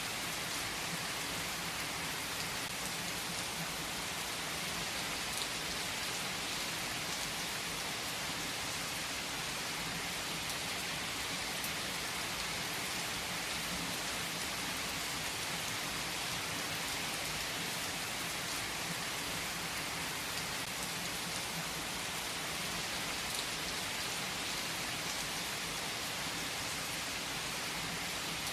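Rain falling steadily, an even hiss of many drops, with a few single drops standing out now and then.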